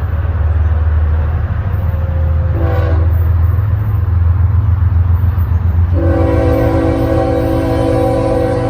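Diesel freight locomotive's chime air horn sounding a short blast about three seconds in, then a long blast from about six seconds in, over a heavy low rumble of the train.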